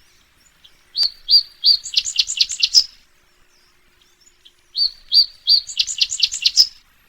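A small songbird singing two short song phrases. Each opens with a few spaced chirps and runs into a quick series of higher notes. The second phrase starts about two seconds after the first ends.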